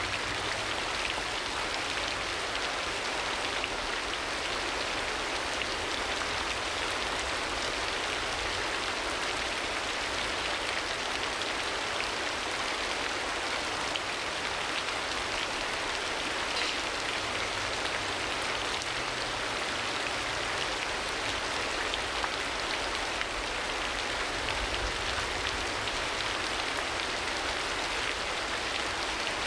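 Steady rain falling, an even wash of patter with no let-up.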